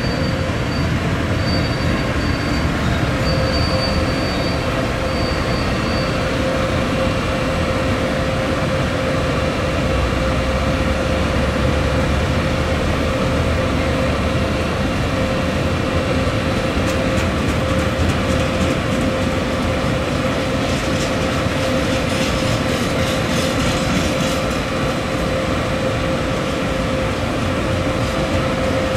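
A train rolling past on the tracks: a steady rumble with a steady hum underneath. A faint high wheel squeal comes and goes in the first few seconds, and a quick run of clicks follows for several seconds after the middle.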